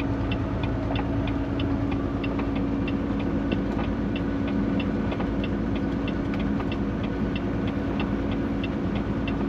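Steady drone of a semi-truck's engine and road noise heard inside the cab, with an even, fast light ticking about three times a second.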